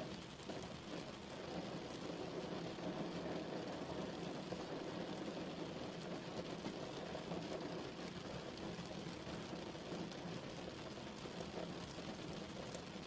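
Steady rain falling, a continuous even patter.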